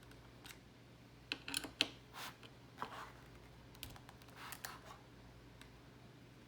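Scattered light clicks and taps, with a couple of short scrapes, from a screwdriver and the plastic stock cooler brackets as the brackets are unscrewed from a motherboard.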